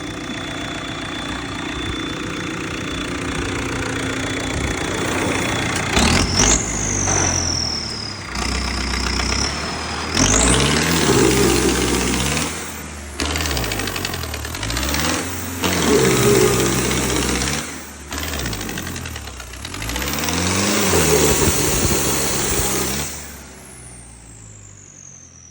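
Turbocharged diesel engine of a modified Ford 3600 tractor, fitted with an industrial generator engine and an 85-number turbo. It idles steadily, then is opened up about six seconds in with a high turbo whistle. Its revs rise and fall in three strong surges, and near the end it drops back while the turbo whistle winds down.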